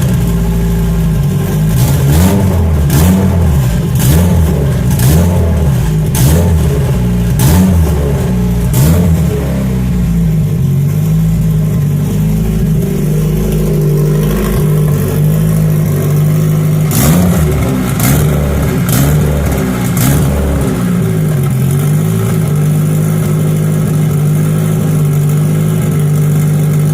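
Turbocharged Honda Civic engine running on E85, revved again and again by throttle blips, its pitch rising and falling with each blip. Sharp cracks come with the blips, mostly in the first nine seconds and again around 17 to 20 seconds in.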